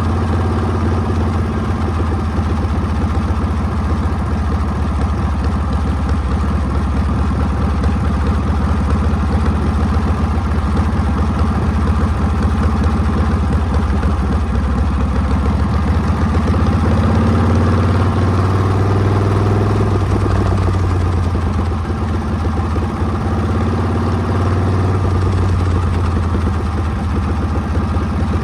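Harley-Davidson Panhead V-twin engine running with a continuous, rapid pulsing beat. The pitch rises somewhat around the middle, then eases back.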